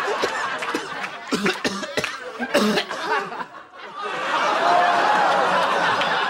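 Coughing and hacking between halting words, over studio audience laughter; the laughter swells into a steady wash in the last two seconds or so.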